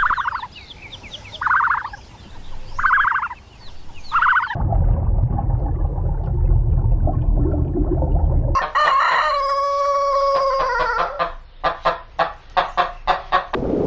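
Chickens calling: four short calls, then a low rumbling noise for about four seconds, then a rooster crowing once, followed by a run of quick clucks.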